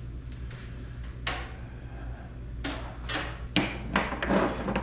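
Clatter of tools and parts being handled and set down on a work surface: one sharp knock about a second in, then a quick run of knocks and rattles over the last two seconds.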